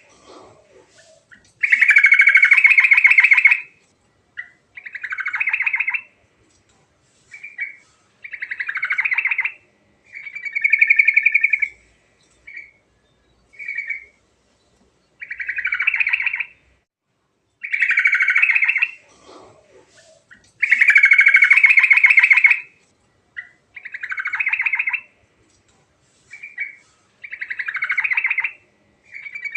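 Yellow-vented bulbul (trucuk) singing in full, rapid bubbly phrases of about a second or two each, with short pauses between them. The same run of phrases seems to come round again after about 18 seconds.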